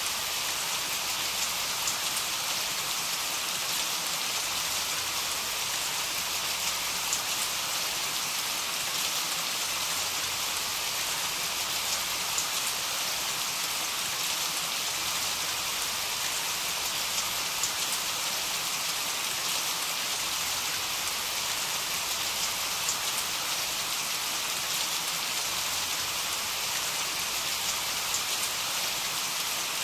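Steady heavy rain, a dense even hiss of drops falling on a surface, with no thunder.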